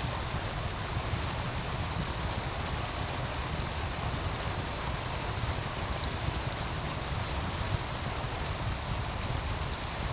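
Wood fire crackling with a few sharp pops, the loudest near the end, over the steady rush of a meltwater stream.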